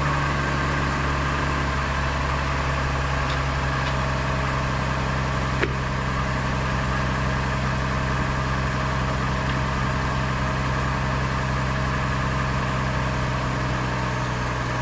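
The 2004 Chevy Trailblazer's 4.2-litre inline-six idling steadily, freshly started on new oil after an oil change. One brief click about six seconds in.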